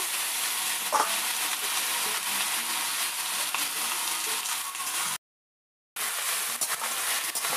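Raw chicken skin sizzling in a hot kadai as it is stirred with a metal spatula to render out its fat, with a metal clank about a second in. The sizzle cuts to silence for under a second past the middle, then resumes with light scraping.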